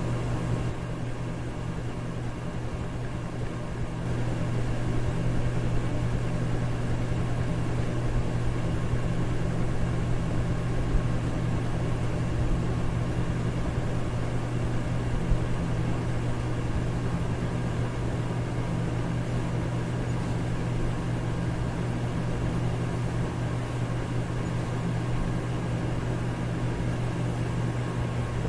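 Electric fan running steadily: a low motor hum under an even rush of air, a little louder from about four seconds in.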